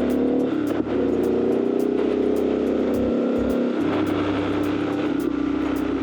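Triumph Scrambler 1200's parallel-twin engine running under way, with a brief drop in level a little under a second in and a slight rise in pitch after it.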